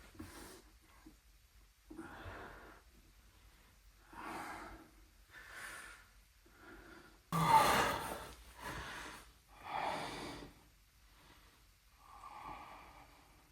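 A person breathing, a series of irregular heavy breaths and exhales with pauses between them, the loudest one starting suddenly about halfway through.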